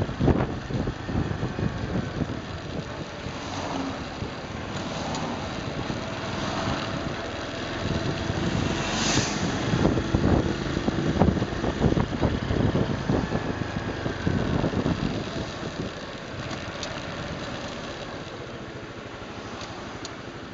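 Honda Super Cub 110's small single-cylinder four-stroke engine running on the move, mixed with road and wind noise; the sound eases off and gets quieter about three-quarters of the way through.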